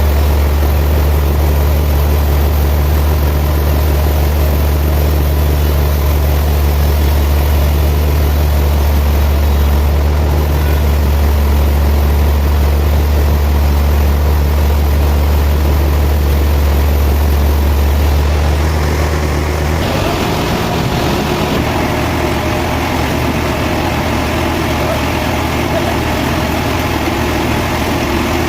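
Heavy sawmill machinery running with a steady, loud low hum. About twenty seconds in, the hum drops away and a rougher, more even mechanical noise takes over.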